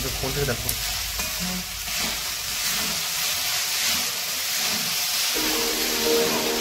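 Poha (flattened rice) sizzling in a kadai while it is stirred and tossed with a metal spoon. Background music comes in about five seconds in.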